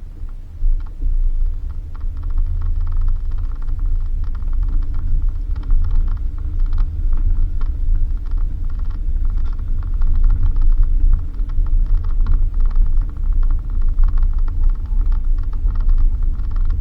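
Suzuki Jimny driving over a dirt road, heard from inside: a steady deep rumble, with dense rattling and clicking from the body and suspension on the rough surface.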